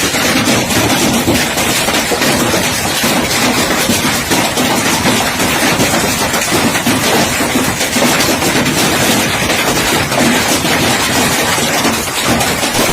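Heavy hail pelting down, a loud, dense, unbroken clatter of countless stones striking hard surfaces.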